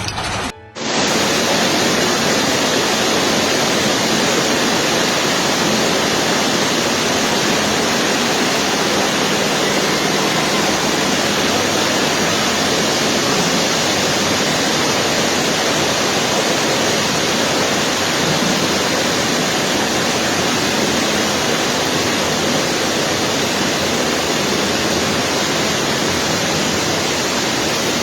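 Steady, even rush of water, starting just under a second in after a brief break.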